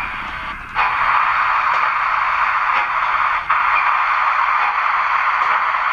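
Cylinder drain cocks of a sound-fitted OO gauge model steam locomotive switched back on, giving a steady hiss of escaping steam that starts suddenly about a second in, with one brief break about three and a half seconds in.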